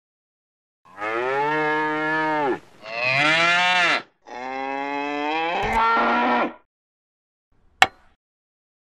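Cattle mooing: three long moos one after another, each with a low steady pitch that drops away at its end. A single short, sharp knock follows near the end.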